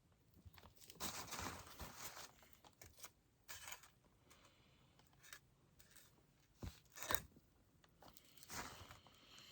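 Faint rustling and crinkling handling noises in a few short, irregular bursts, the longest about a second in.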